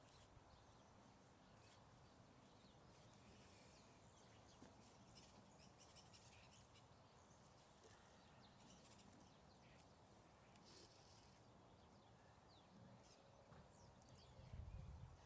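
Near silence: faint outdoor ambience with scattered small high ticks and chirps, and a soft low thump near the end.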